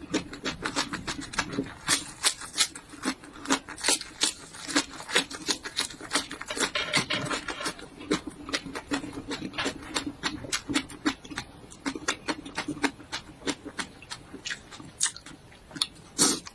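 Chewing of raw bitter gourd and garlic leaves: irregular crunching and wet mouth clicks, several a second.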